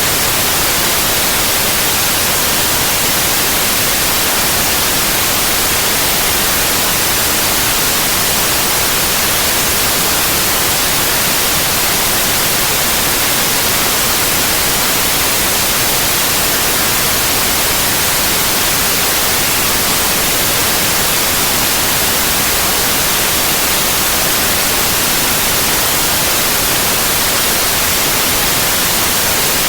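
Steady synthetic white noise: an even, unbroken hiss, brightest in the high end, with no change in level.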